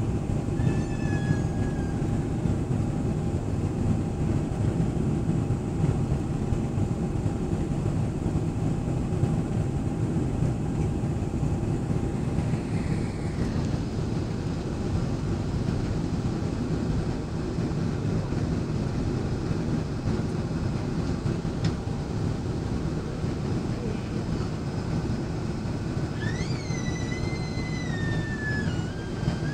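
Steady low rumble of a Boeing airliner's engines heard inside the passenger cabin, with a faint steady hum over it. A short wavering high-pitched sound comes about a second in and again near the end.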